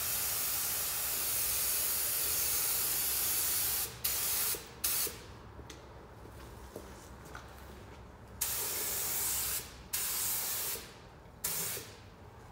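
Air-powered paint spray gun hissing as it sprays: one long pass of about four seconds, then several shorter trigger pulls with pauses between them.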